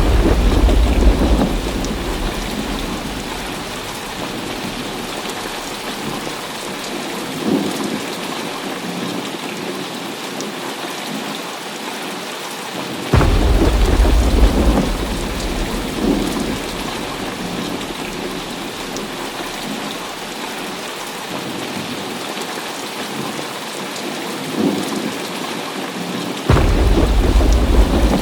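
Heavy rain falling steadily, with thunder: a rumble at the start, a sudden loud clap and rumble about halfway through, and another near the end.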